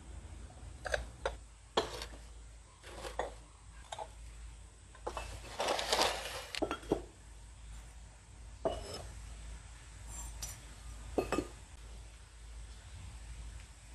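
Glaze-fired ceramic pieces clinking and knocking against each other and against hard surfaces as they are lifted out of a wood-fired kiln and set down. There is a longer noisy scrape about five to six and a half seconds in.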